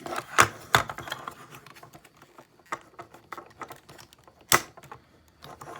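Plastic parts of a Transformers Studio Series Long Haul figure clicking and snapping as they are pulled apart and repositioned. There are two sharp snaps in the first second and another a little after four seconds in, with lighter clicks between.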